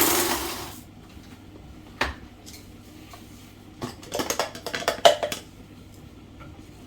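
Pots and kitchen utensils clattering: a single knock about two seconds in, then a quick run of clinks and knocks about four to five seconds in. A loud rushing noise dies away in the first second.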